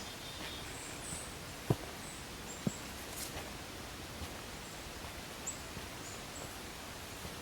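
Faint outdoor ambience: a steady hiss with a few short, high chirps of distant birds and two soft clicks, one under two seconds in and one about a second later.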